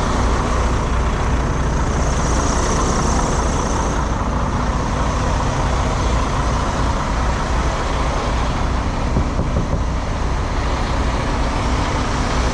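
Semi truck's diesel engine idling steadily, a constant low hum.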